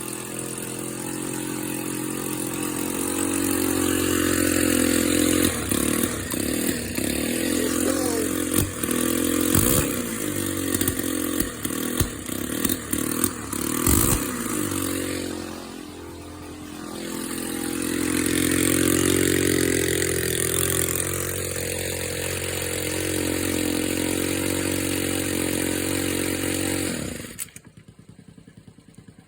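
Small carburetted engine running unevenly just after a cold start, its speed rising and falling, with knocks and clatter through the middle. The sound cuts off abruptly near the end.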